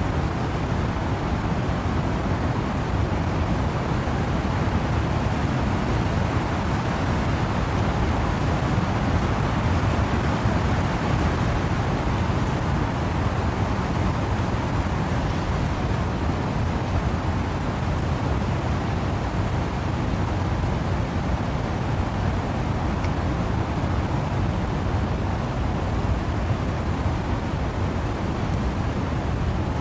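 Wind and rain through trees: a steady, deep rush with no distinct gusts or drops standing out.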